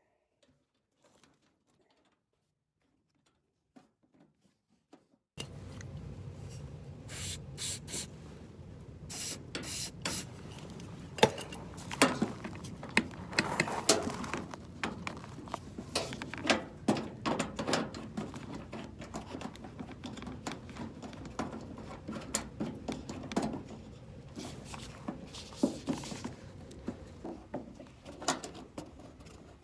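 Near silence for about five seconds, then a steady low background with irregular clicks, knocks and rattles of things being handled, a few of them sharp and loud.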